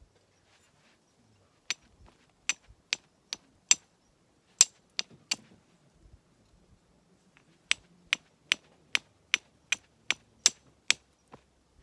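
Repeated sharp, slightly ringing knocks, about two to three a second in runs with short pauses between: a nata hatchet striking small firewood to split it.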